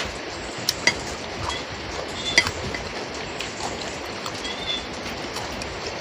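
A spoon clinking against a plate a few times while eating, the sharpest clinks about a second in and again near the middle, over a steady hiss of falling rain.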